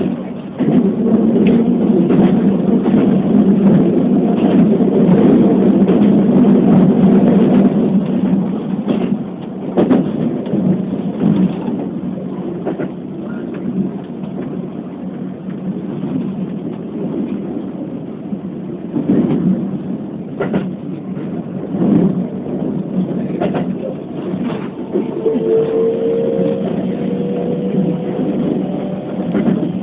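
Keikyu New 1000 series electric train running, heard from inside the front car: a steady rumble of wheels on rail, louder for the first several seconds, with scattered clacks of wheels over rail joints. Near the end a faint slightly rising whine sounds for a few seconds.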